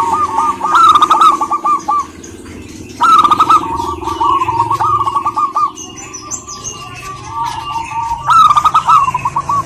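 Zebra dove (perkutut) cooing in rapid, staccato trilled phrases, three bursts with softer notes between them.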